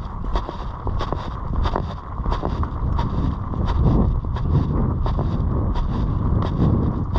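Wind buffeting a GoPro's microphone in a heavy low rumble, with a regular ticking about three times a second.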